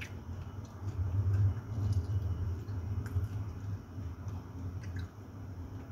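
Close-miked chewing while eating by hand, with a low muffled rumble that swells a second or two in and a few light clicks of fingers against a ceramic bowl.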